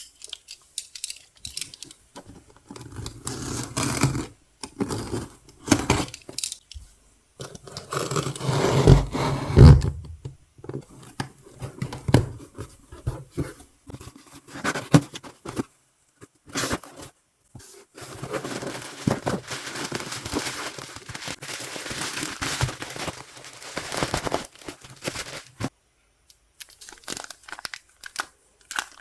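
An album's plastic wrapping and packaging being torn and crinkled open by hand, in irregular bursts of tearing and rustling, loudest around eight to ten seconds in.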